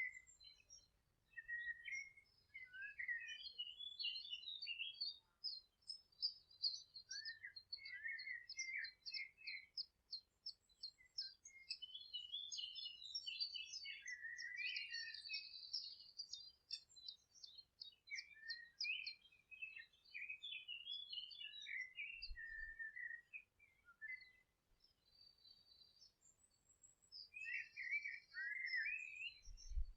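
Songbirds singing: overlapping quick chirps and warbled phrases, with a run of rapidly repeated high notes about a quarter of the way in and a few short pauses.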